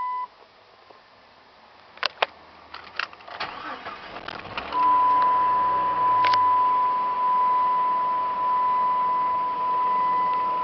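Keys clicking in the ignition, then the Jeep Grand Cherokee's engine starts about three and a half seconds in and settles to a low idle. From about five seconds in, a loud, steady, high dashboard warning tone sounds over it.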